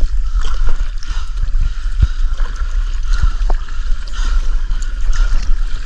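Water rushing and gurgling around a kayak being paddled in through the surf, with a heavy low rumble and scattered small knocks.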